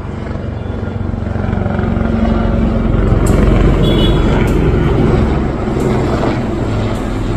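Helicopter running, its sound growing louder over the first few seconds and then holding steady.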